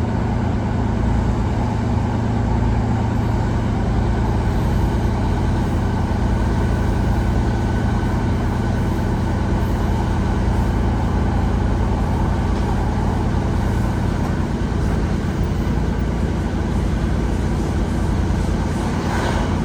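Class 150 Sprinter diesel multiple unit's Cummins underfloor diesel engine working hard under power as the train accelerates away, a steady loud drone with rail running noise. About two-thirds of the way through the low engine note shifts.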